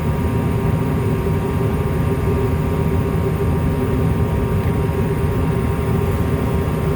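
Gas furnace running with its burners lit: a steady low rumble of flame and fans with a constant hum over it.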